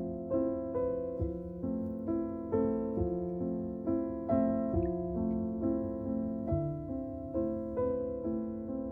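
Background piano music: gentle notes and chords struck about two a second, each fading slowly.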